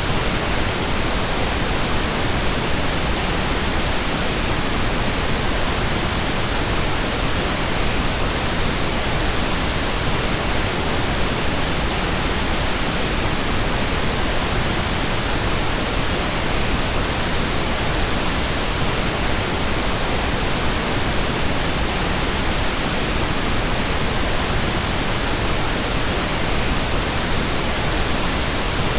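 Steady, unchanging pink noise: an even hiss spread evenly across all pitches, with no events or changes.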